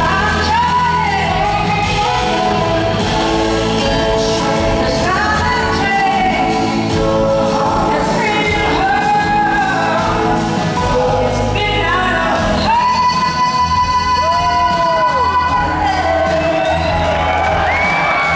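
Live blues-rock band playing a slow song in a large hall: singing and gliding, bending lead notes over a steady bass, with a long held note in the second half. Shouts and whoops come from the audience.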